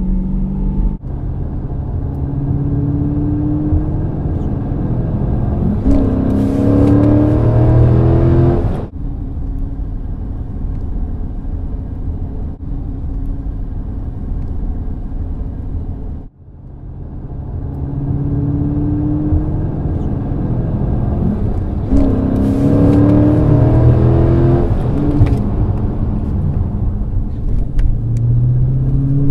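Dodge Charger's V8 engine under hard acceleration, its note climbing in steps through the upshifts. It cuts off abruptly about nine seconds in and gives way to a steadier, lower drone. That drops out briefly around sixteen seconds, then the engine pulls hard and climbs through the gears again.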